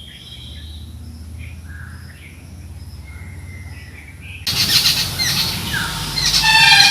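Birds calling and chirping around a rural pond: a few faint chirps at first, then, about two-thirds of the way in, the sound jumps suddenly louder with a busier chorus of calls.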